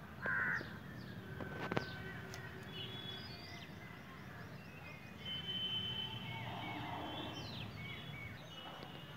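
Several birds chirping and whistling, with one loud, short, harsh call just after the start. A sharp click comes just under two seconds in.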